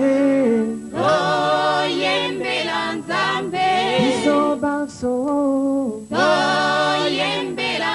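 Singing voices in a gospel song, the phrases breaking off about a second in and again around five seconds in.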